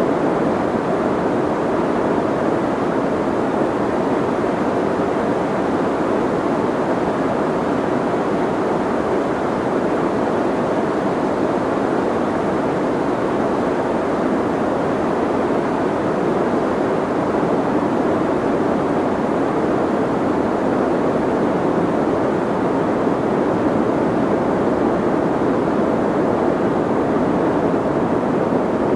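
Steady, soft white noise played as a sleep and noise-masking track: an even, muffled hiss with most of its weight in the low-middle range and little top end, unchanging throughout.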